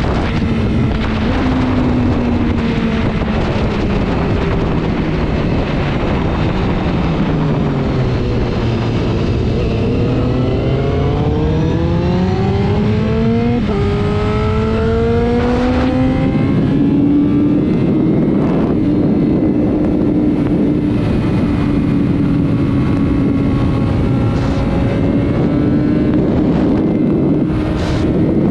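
Sport motorcycle engine under way with heavy wind rush: the revs fall away, then climb, drop sharply at a quick upshift about halfway through, climb again and hold steady at high revs.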